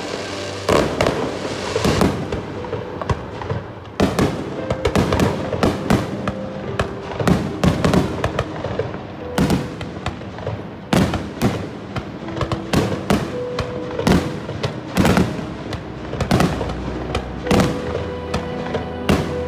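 Aerial fireworks bursting in a rapid, irregular string of bangs and crackles, over background music.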